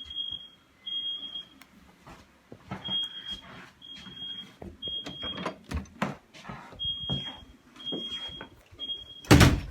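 Smoke alarm sounding in a repeating pattern of three short high beeps about a second apart, then a pause, over handling rustles and clicks. A loud thump near the end.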